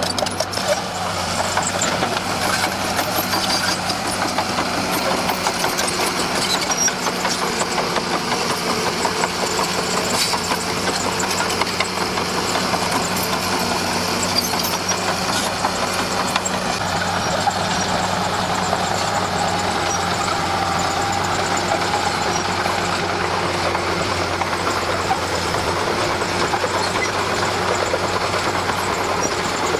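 Komatsu D41P crawler bulldozer's diesel engine running steadily, with a continuous dense rattling clatter over the engine's low drone.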